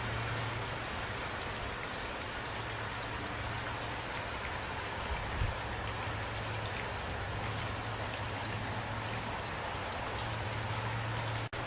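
Steady rain falling, an even hiss with many individual drops ticking, over a low steady hum. A brief low thump comes about five seconds in, and the sound cuts out for an instant near the end.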